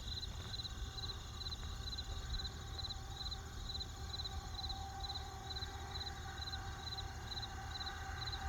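Crickets chirping in a steady rhythm, about three chirps a second, over the low rumble and occasional faint crackles of a campfire.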